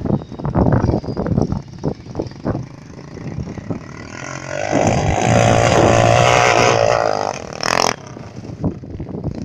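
Pit bike's small single-cylinder engine held at high revs for about three seconds in the middle, loudest then, with rough knocking and gusty noise before and after and a sharp crack as it drops off.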